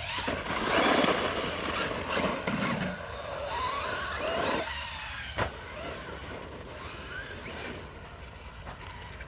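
Traxxas Hoss 4x4 VXL RC monster truck driving off-road: its electric motor whines, rising and falling in pitch, over the tyres running on dirt, with a sharp knock about five seconds in.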